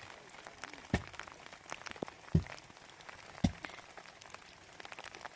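Rain pattering in small ticks, with three heavy knocks about a second apart.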